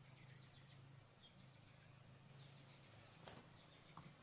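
Near silence: a faint, steady high insect trill such as a cricket's, with faint short chirps and two soft clicks near the end.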